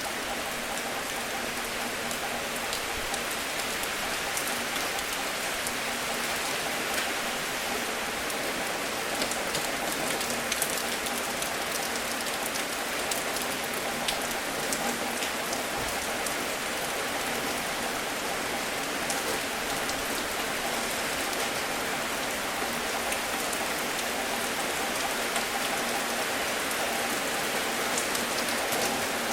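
Gentle rain falling steadily: an even hiss with many small drop taps scattered through it.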